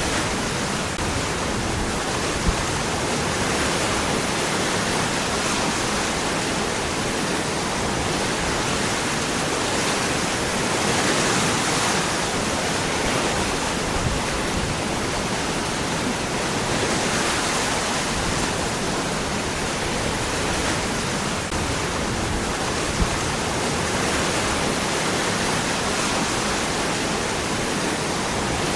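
Waterfall rushing steadily over rocks, an unbroken even roar of falling water.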